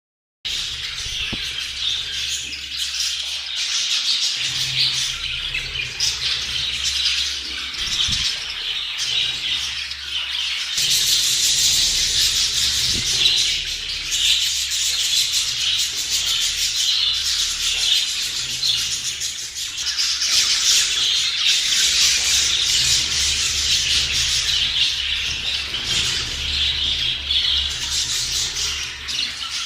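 Budgerigars chattering, warbling and squawking nonstop, many voices overlapping.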